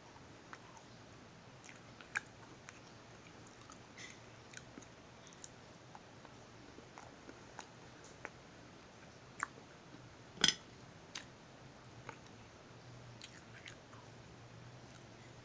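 Quiet chewing and crunching of a chocolate sandwich cookie, heard as scattered soft clicks, with one louder sharp crack about ten seconds in.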